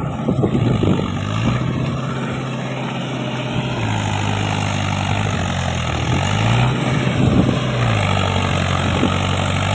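Mahindra tractor's diesel engine running under load, its speed rising and falling a few times as it works to pull out of the mud. A few short knocks or splashes come in the first second.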